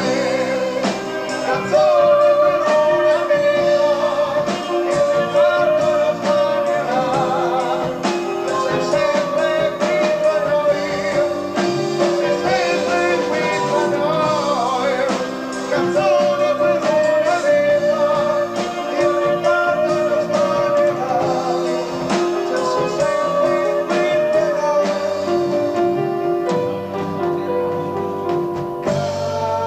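Progressive rock band playing live, with singing over full-band accompaniment and drums, heard on an amateur concert tape recording.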